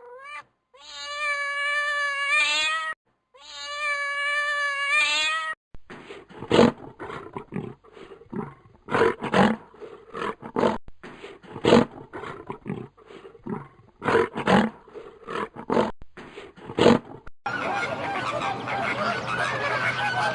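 Animal calls in succession: two long, drawn-out cat meows, each about two seconds, then a run of loud, short animal calls, then a busy, steady clamour of many animals near the end.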